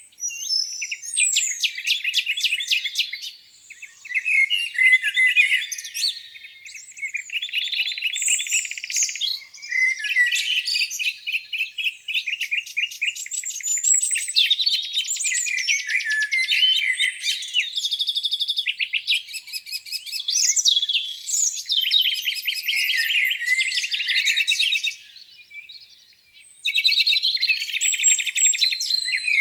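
Several songbirds singing at once, with overlapping chirps and rapid trills. The singing drops off briefly about four seconds in and again near the end.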